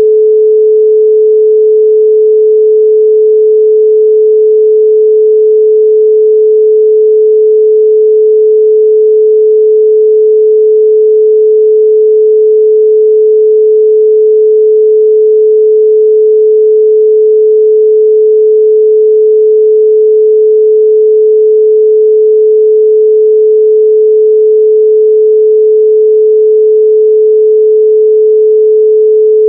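A steady, loud 432 Hz pure sine tone, one unwavering pitch with no other sound.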